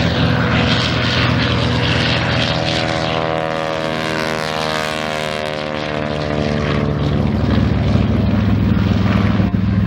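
Piston-engine propeller aircraft flying past the crowd line, its engine and propeller tone dropping in pitch as it goes by a few seconds in, then running on steadily.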